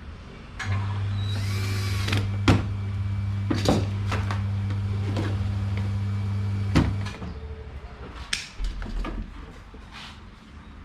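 A mains-powered electrical device hums steadily at a low pitch after being switched on, then cuts off after about six seconds. Several sharp knocks and clicks sound over and after it.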